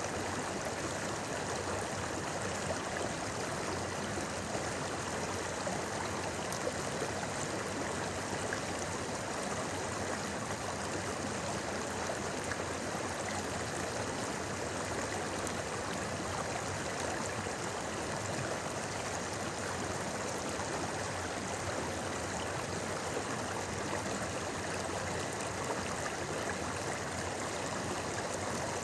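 A shallow stream or river babbling and gurgling steadily over rocks.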